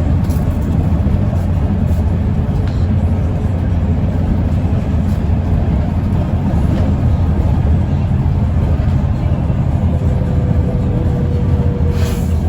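Mercedes-Benz O405N2 city bus under way, heard from inside the cabin: a steady low engine drone with road noise. A faint whine comes in and rises slightly near the end.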